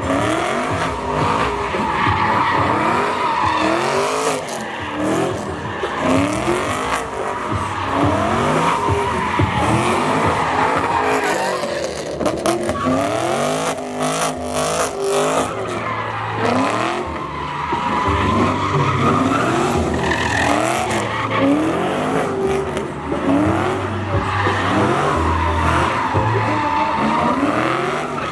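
Drift cars sliding on track: engines revving up and down in repeated rising pitch sweeps over continuous tyre squeal.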